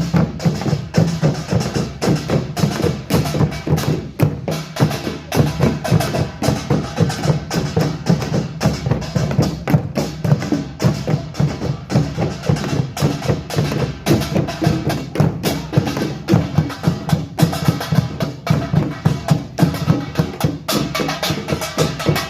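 Korean pungmul percussion ensemble playing a fast, driving rhythm: kkwaenggwari small gongs and janggu and buk drums struck many times a second.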